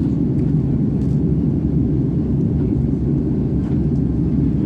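Steady low rumble of an Airbus A330 jet airliner in flight: engine and airflow noise as heard inside the cabin.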